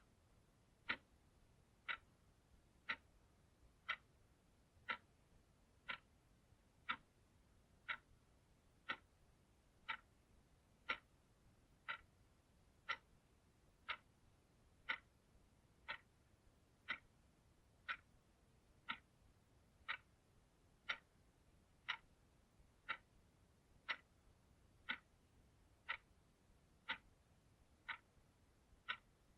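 Clock ticking steadily, one sharp tick a second in an even rhythm, with almost no background noise between ticks.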